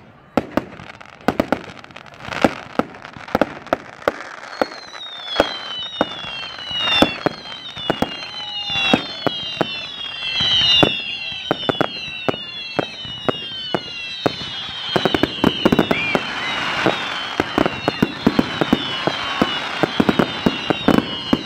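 Fireworks display: a rapid string of sharp bangs, and from about four seconds in, many short whistles, each falling in pitch, overlapping one after another. The bangs thicken into a crackling rush later on.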